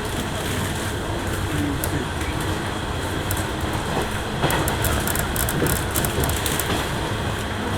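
Running noise inside a JR West 103 series electric train at speed: a steady rumble of wheels on rail and traction motors. From about four and a half seconds in it gets a little louder, with a run of sharp clicks and clatter.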